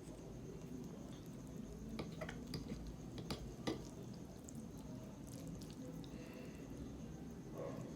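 Eating sounds of instant noodles with barbecue-sauced pork ribs: soft wet squishing and chewing, with a few sharp clicks between two and four seconds in.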